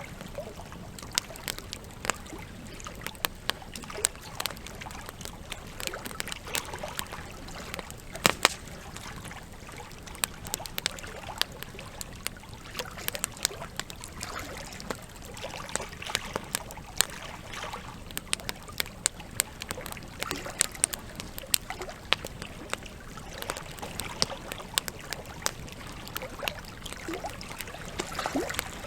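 Wood campfire crackling, with frequent sharp pops and snaps of varying strength, the loudest a close pair about eight seconds in. Under it runs a steady trickle of flowing water.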